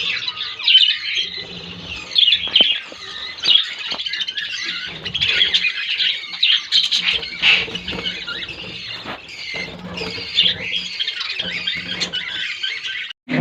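A colony of budgerigars chattering and squawking, many birds calling over one another without a break.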